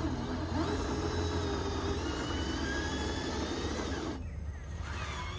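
Small electric motor of a handmade RC truck whining, its pitch rising and dipping briefly, then holding steady before cutting off about four seconds in, over a low steady hum.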